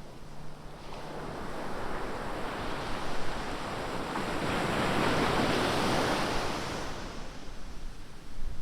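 Ocean surf: a wave breaks and washes up the beach, the rush of water swelling over a few seconds and fading away near the end.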